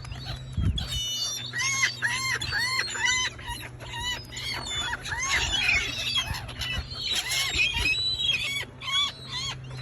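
A flock of gulls calling over each other, with many short squealing calls repeated in quick runs as they compete for thrown bread.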